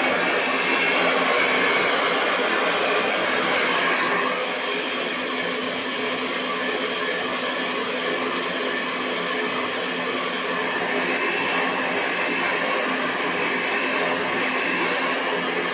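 Hair dryer blowing continuously: a steady rush of air with a motor hum and a high whine. It becomes a little quieter about four seconds in.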